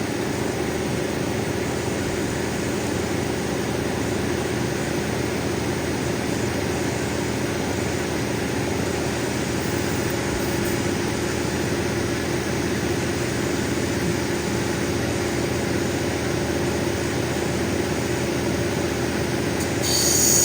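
Cabbing machine running steadily with its diamond grinding wheel, an opal nobby being ground along its edge. A brief burst of high hiss comes near the end.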